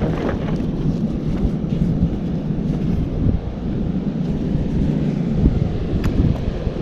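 Wind buffeting the microphone in a steady low rumble, with ocean surf washing behind it.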